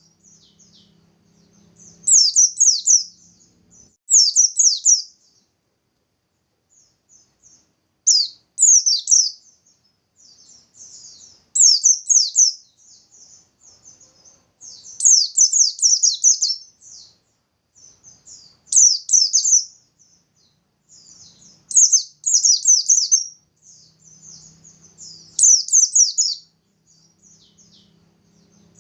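Pleci (white-eye) singing in rapid, high, trilling bursts about a second long, repeated every three to four seconds, with soft chips between. These are the fast 'nembak' bursts that keepers play to set other white-eyes singing.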